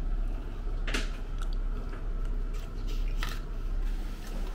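A person chewing a mouthful of soft mango sticky rice close to the microphone, with a few short wet mouth clicks about a second in and again at about three seconds.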